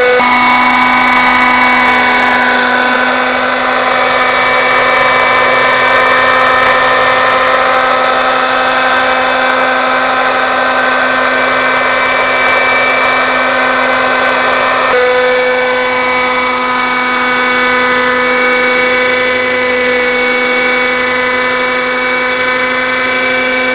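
Engine-powered radio-controlled helicopter running: its small glow engine and rotors give a loud, steady, high whine. The tone shifts slightly about fifteen seconds in.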